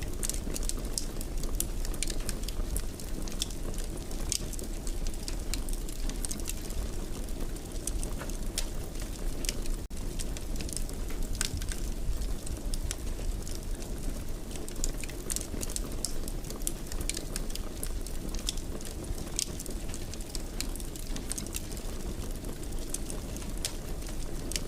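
Wood fire burning in a fireplace, crackling with frequent small snaps and pops over a steady low background.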